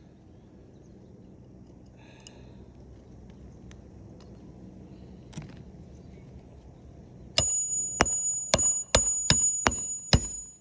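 Hammer driving a roofing nail into an asphalt shingle: about seven sharp, ringing blows in quick succession, starting about seven seconds in.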